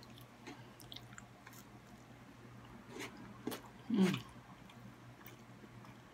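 Close-miked mouth sounds of someone eating spaghetti with meat sauce: soft chewing and small wet clicks of the lips and tongue, with a brief louder voiced sound from the mouth about four seconds in.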